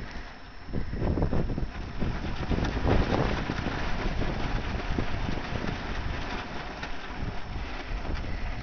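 Tarp flapping and rustling in gusty wind, an uneven run of crackles and flaps, with wind buffeting the microphone.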